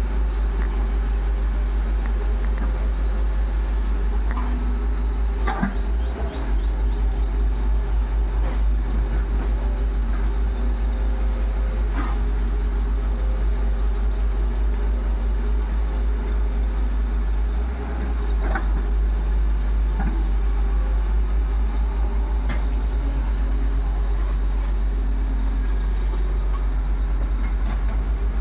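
Heavy diesel engine running steadily with an even low throb, with a few sharp knocks.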